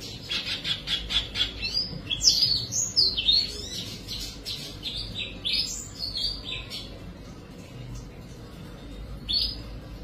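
Bird chirping: quick runs of high notes for the first several seconds, thinning out, then one more call near the end.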